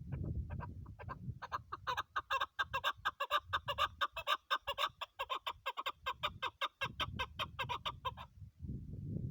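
Chukar partridge calling: a fast, even run of short clucking 'chuk' notes, about six a second, that builds up and then stops about a second before the end. A low rumble underlies it, loudest at the start and again near the end.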